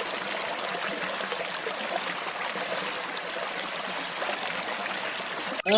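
Steady rushing hiss with no voice, spread evenly from low-mid to high pitches, that cuts off abruptly near the end just as the chanted recitation resumes.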